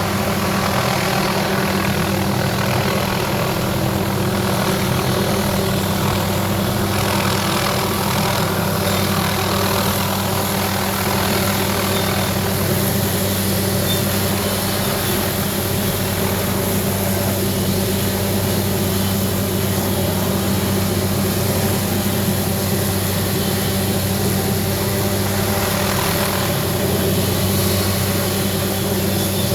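Steady engine drone holding one constant pitch throughout, with a broad rushing noise over it.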